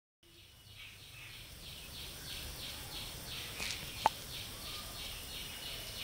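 A bird chirping over and over, about three short falling chirps a second, with one sharp click about four seconds in.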